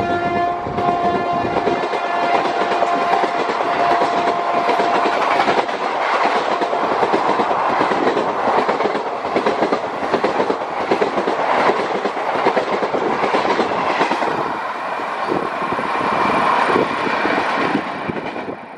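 Express passenger train passing at high speed: the tail of its horn note fades out in the first second or two, then the coaches rush past with steady clickety-clack of wheels over rail joints.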